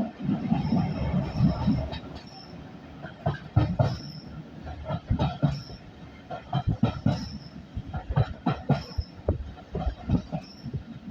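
Ride noise inside an old railway carriage behind a steam locomotive: irregular knocks and rattles as the carriage jolts along the track, with short high squeaks recurring every second or so over a steady rumble.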